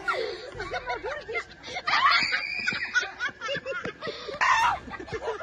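People laughing, with many short rising and falling vocal sounds in quick succession.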